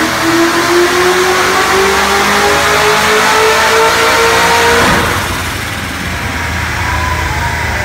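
Supercharged LS7 V8 of a Corvette Z06 on a chassis dyno pull, revs climbing steadily under load. About five seconds in, the throttle closes and the engine falls back to a low rumble.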